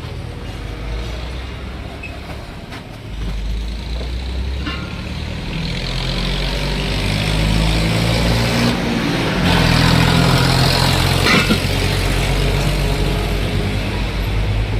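A large vehicle's engine running, its hum shifting in pitch and growing steadily louder, with a hiss above it.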